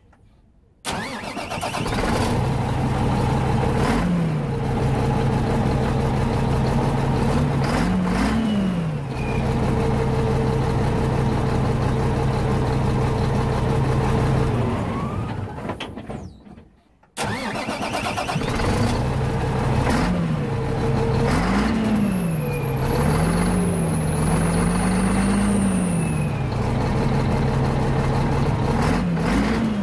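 Renault Magnum truck's Mack six-cylinder diesel engine started, catching abruptly and settling into a steady idle, blipped twice. It dies away around the middle, is started again, and is then revved several times in quick succession.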